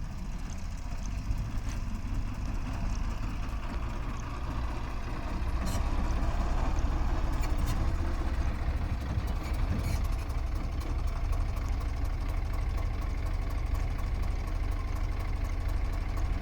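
Heavy diesel engine running steadily, a little louder from about five seconds in, with a few brief knocks.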